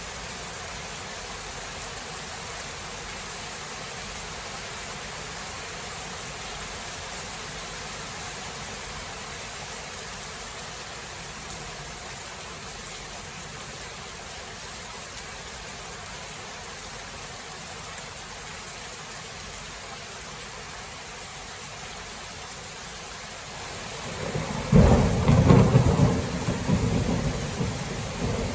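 Steady rain falling. Near the end a loud roll of thunder comes in and rumbles on low and deep.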